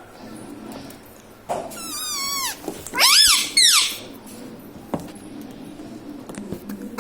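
Indian ringneck parrot calling: a wavering, squeaky call about a second and a half in, then two loud high calls that each rise and fall, about three seconds in.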